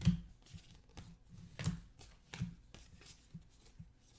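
Basketball trading cards being flipped through by hand, card sliding off card: an irregular run of short snaps and slides, the loudest at the start.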